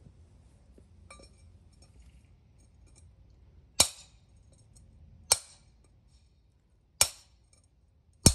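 Four sharp hammer strikes on a landscaping brick, about a second and a half apart, each with a short ringing tail, as the brick is split in two.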